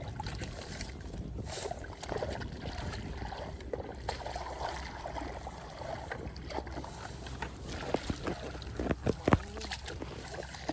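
Shallow muddy water sloshing and splashing as hands grope through it for fish, in irregular short splashes with a few sharper slaps near the end, over a steady low rumble.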